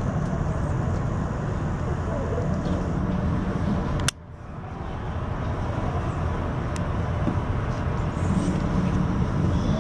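Jet airliner engine noise, a steady low rumble that cuts off sharply about four seconds in and then swells back up.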